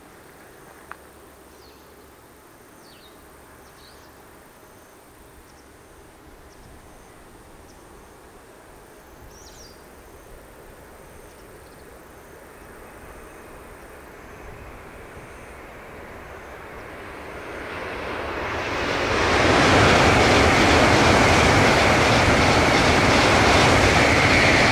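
Tokaido Shinkansen high-speed train approaching and passing at speed. Its sound builds slowly from faint to a loud, steady rush about two-thirds of the way in, with a high tone on top, and it is still passing near the end.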